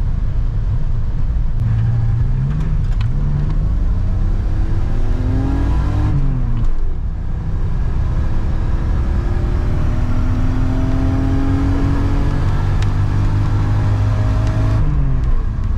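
Toyota Celica Supra Mk2's inline-six engine accelerating through the gears, heard from inside the cabin. The engine note climbs steadily in each gear and drops at the gear changes, about six seconds in and again near the end.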